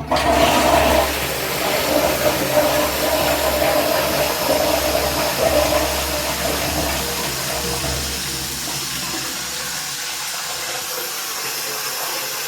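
High-level cistern flushing into a Victorian-style pan: a sudden loud rush of water at the start that keeps going for about eight seconds, then settles into a steadier hiss as the cistern refills.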